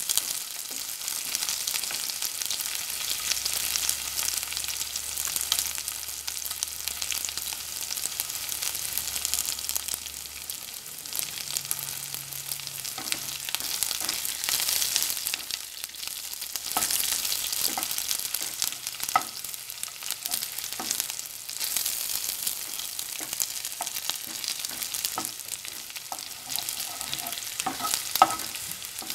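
Sliced onions sizzling in hot oil in a nonstick wok, stirred with a spatula that scrapes and taps on the pan now and then, with a sharper knock near the end.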